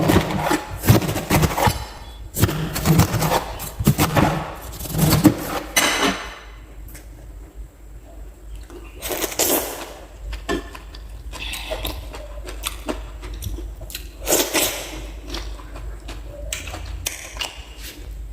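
Knife cutting through a pineapple onto a cutting board: a fast run of crunchy cuts and knocks for about six seconds, then single cuts and taps every second or two.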